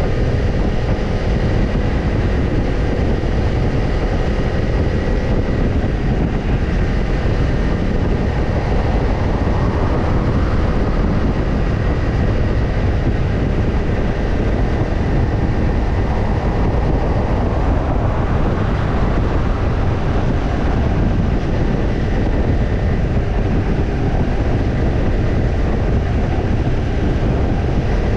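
Kawasaki Ninja 250's parallel-twin engine running through a BEET NASSERT Evolution Type II titanium slip-on muffler. The engine note rises and falls a couple of times over a steady, heavy low rumble.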